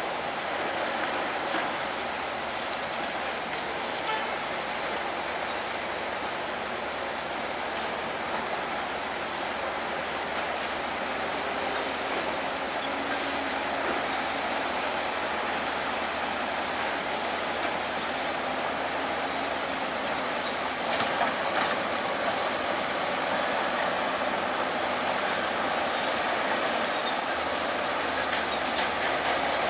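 Heavy earthmoving machinery at work, a bulldozer and dump trucks: a steady, noisy mechanical clatter of diesel engines and running gear that holds at one level throughout.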